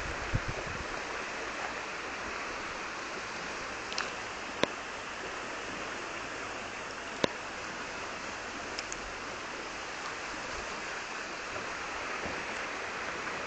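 Swollen river rushing, a steady even roar of flowing water, with a few sharp clicks in the middle.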